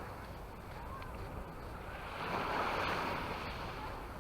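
Small waves washing up on a beach, a hissing swell rising and falling about two and a half seconds in, over a low rumble of wind on the microphone.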